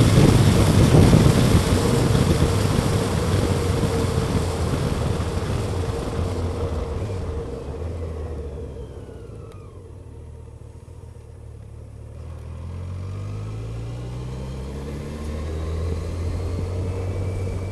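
Motorcycle on the move, with wind rush and engine running loud at first. The sound fades as the bike slows almost to a stop about halfway through, then the engine note rises again as it accelerates away.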